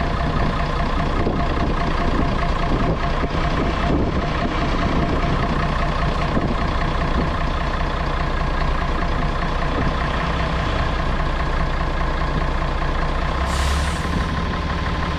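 Scania BR111 bus's diesel engine running steadily, with a short burst of air hiss near the end.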